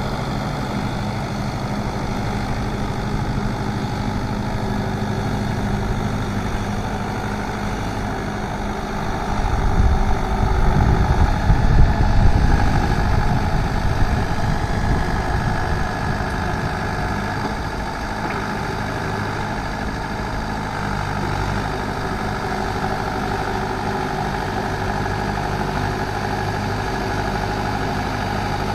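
Mahindra 595 Turbo tractor's diesel engine running steadily while driving a rotavator through a flooded paddy field for puddling. A heavier low rumble swells from about nine seconds in and eases off after about fifteen seconds.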